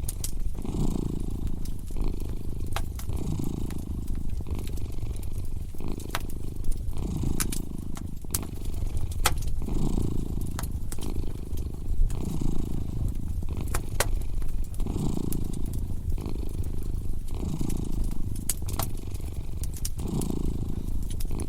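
A domestic cat purring steadily, the purr swelling and fading with each breath, over a wood fire crackling with scattered sharp pops.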